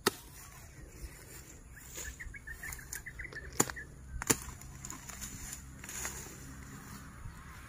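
A small bird twittering briefly about two seconds in. About halfway through come two sharp knocks, less than a second apart.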